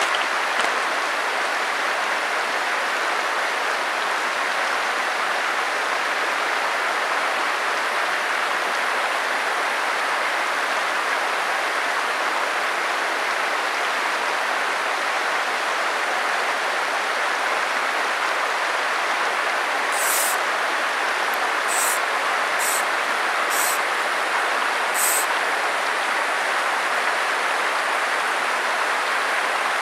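Creek water rushing steadily over rocks. About twenty seconds in, a handful of short, high-pitched ticks sound over it.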